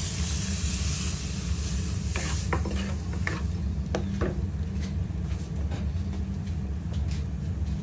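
Coconut milk sizzling loudly as it hits hot spiced oil in a clay pot, fading after about the first second and a half. A wooden spatula then stirs and scrapes against the clay pot with several light knocks, over a steady low hum.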